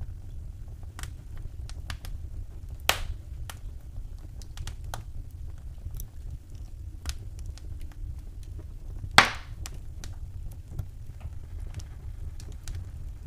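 Wood fire burning in a fireplace: scattered sharp crackles over a low steady rumble, with two louder pops, about three seconds in and about nine seconds in.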